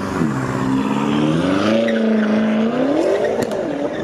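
Straight-piped 2019 Ford Raptor's twin-turbo 3.5-litre EcoBoost V6 revving loudly through its open exhaust. The pitch dips, climbs and holds for a couple of seconds, then rises and falls once more near the end.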